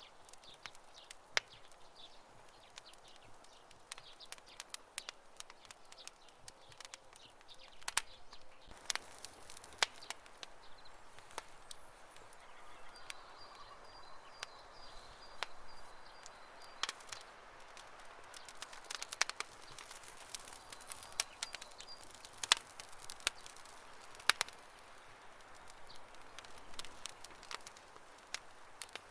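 Campfire crackling: burning wood giving irregular sharp pops and snaps, some loud, over a soft background hiss.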